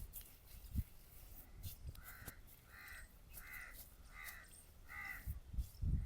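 A bird calling five times in a row, about two-thirds of a second apart, starting about two seconds in, with a few soft low thumps near the start and the end.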